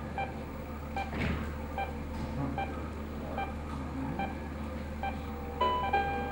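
Bedside patient monitor beeping steadily, one short beep about every 0.8 s over a steady low hum. A few different, higher electronic tones sound near the end.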